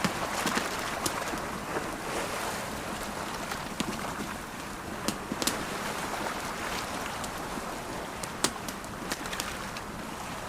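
Campfire crackling with irregular sharp pops over the steady wash of ocean waves.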